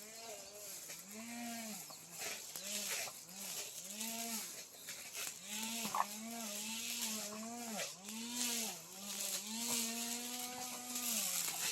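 Small two-stroke brush cutter engine cutting grass, its revs rising and falling over and over as the throttle is worked, with one sharp click about six seconds in.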